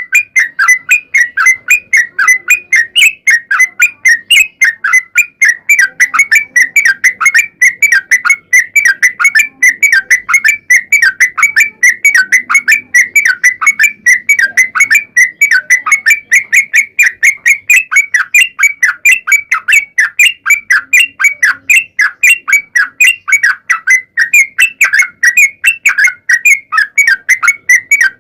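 Yellow-vented bulbul (trucukan) singing a long, unbroken run of short, fast-repeated notes, several a second, played as a lure call to get other trucuk birds to answer.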